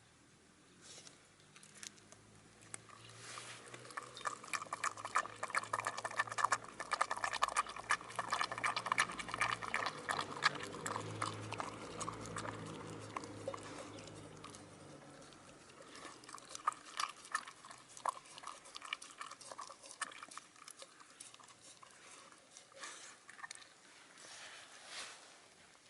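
Shiba Inu crunching and chewing raw chicken wing tips, a rapid wet crackle of bone and gristle. The chewing is dense for the first half and turns to sparser bites and crunches later.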